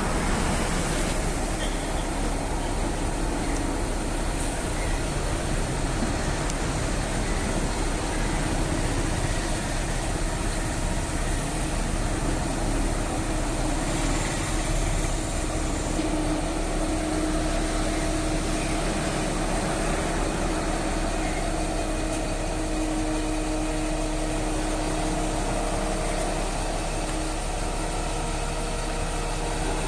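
Mobile crane's engine running steadily, with a faint humming tone joining in from about halfway through for several seconds.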